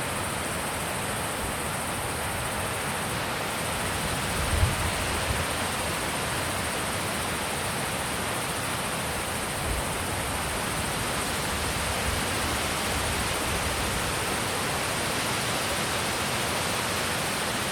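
Steady wind blowing across an open mountain pass, a constant rushing hiss. A few low thumps of wind buffeting the microphone, the strongest about four and a half seconds in and another near ten seconds.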